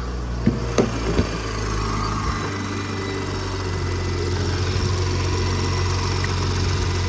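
A BMW 740i's turbocharged inline-six idling steadily with the AC on max, its compressor clutch engaged on only a low vapor charge of refrigerant. A few light knocks come in the first second or so, and the idle note shifts about two and a half seconds in.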